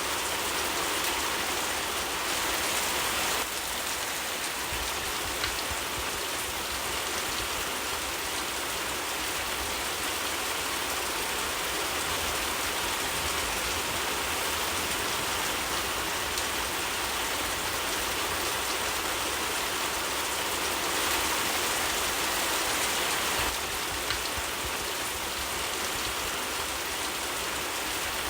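Steady rain falling, an even continuous hiss of drops that swells a little for a couple of seconds about two-thirds of the way through.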